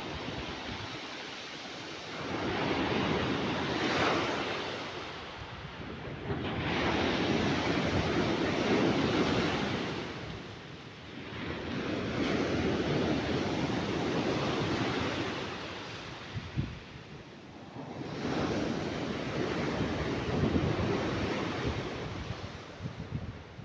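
Sea waves breaking and washing on a beach, swelling and falling back about four times, each surge a few seconds long.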